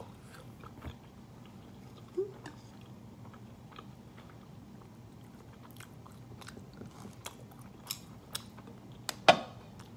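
Close-miked chewing of Chapagetti black-bean noodles with cheese, with small wet mouth clicks and light taps of metal chopsticks against a plate. A brief closed-mouth hum about two seconds in and a sharper click near the end.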